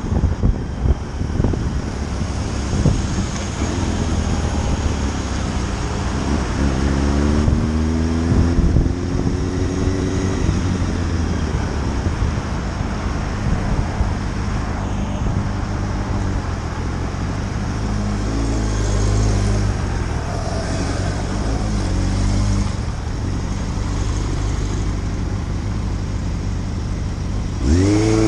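Motorcycle engine running under way with wind noise, the engine note climbing about a quarter of the way in and rising and falling sharply near the end.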